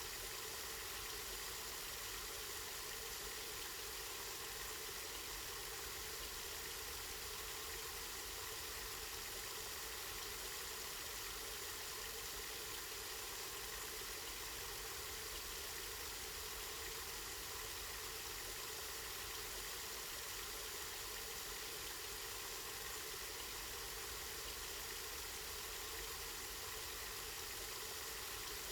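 Water from a spring flowing steadily, an even rushing hiss that does not change.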